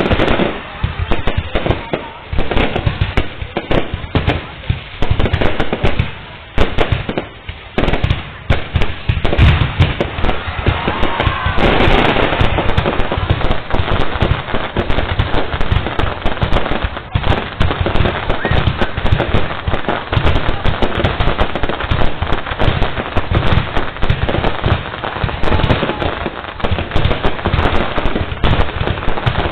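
Fireworks going off in a dense, unbroken string of bangs and crackles.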